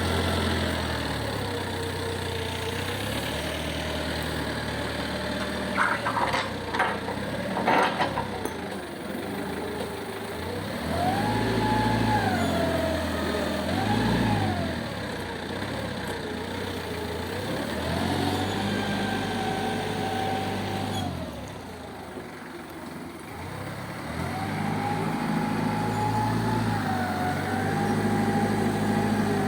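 Engine of a lifting machine, likely a forklift, revving up and down repeatedly as a heavy load is lifted and moved, with a few metallic knocks about six to eight seconds in.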